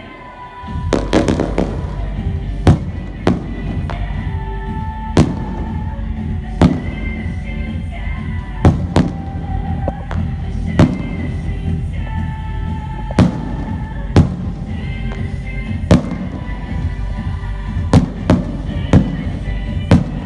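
Fireworks show: aerial firework shells bursting in sharp bangs about once a second, beginning about a second in, over festive background music.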